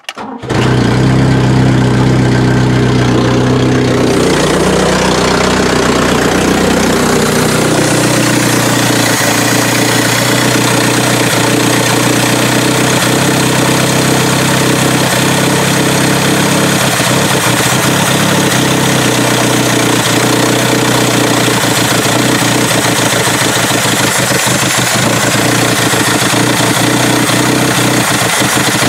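Ford Cortina Mk3's carburetted engine catching at once and running. It idles fast for several seconds, then settles lower. The idle shifts slightly as the distributor is turned by hand to advance the ignition timing.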